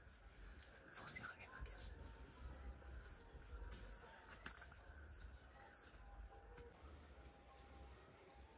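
A bird calling a run of about ten short, high, downward-sliding notes, about two a second, that stop about two-thirds of the way through. Under them is a steady high-pitched insect drone, like crickets.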